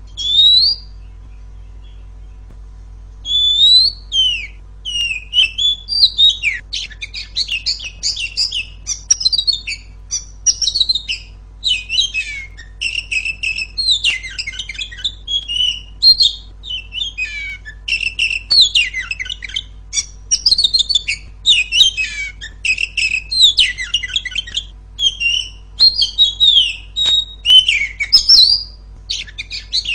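Oriental magpie-robin singing: one short call, a pause of about three seconds, then a loud, fast, unbroken run of varied chirps, trills and whistles.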